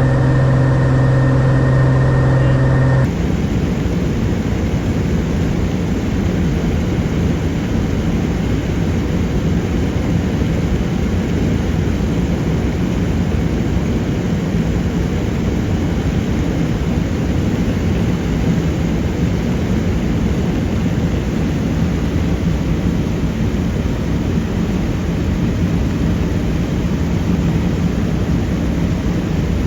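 Steady drone of a single-engine Cessna's piston engine and propeller. About three seconds in it changes abruptly from a strongly pitched hum to a rougher, noisier steady rush.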